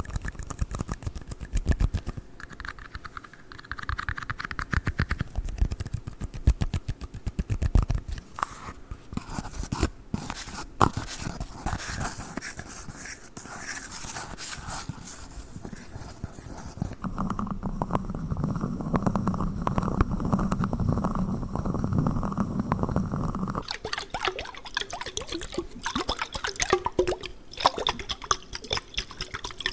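Close-up tapping, scratching and clicking on tiny red cups, rapid and irregular. About 24 s in the sound changes to handling and tapping of a water jar, with water sounds.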